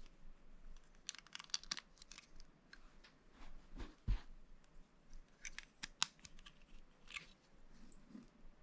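Small plastic Lego pieces handled and pressed together: clusters of quick sharp clicks and light rattling, with two soft knocks about four seconds in.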